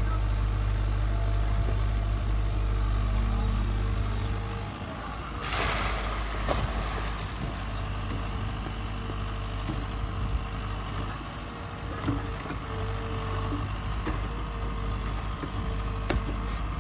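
Sany SY80 excavator's diesel engine running steadily, with a short hiss about five and a half seconds in and a few scattered knocks later.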